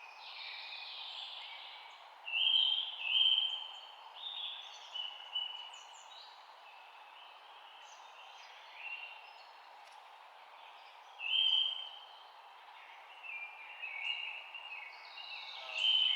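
Several songbirds chirping in short bursts of phrases, some overlapping, with pauses between, over a steady background hiss.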